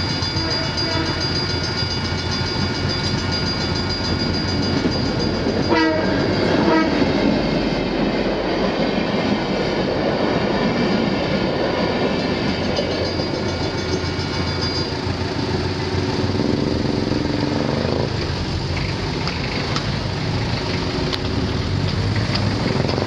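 EMD GR12 diesel-electric locomotive and its train rolling through a level crossing, wheels clattering on the rails, while the crossing bells ring until about fifteen seconds in. The locomotive's horn sounds briefly about six seconds in.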